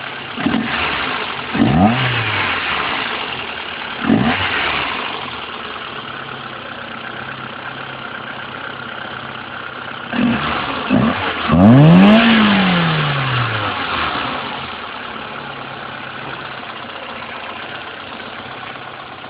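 Peugeot 106 1.1 single-point-injection four-cylinder petrol engine, breathing through an open sport air filter in place of its airbox, idling and being blipped. There are a few quick revs in the first couple of seconds and another near 4 s, then a bigger rev about 12 s in that falls slowly back to idle.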